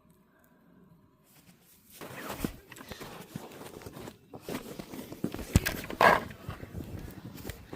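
Footsteps crunching through snow, irregular and fairly loud, starting about two seconds in.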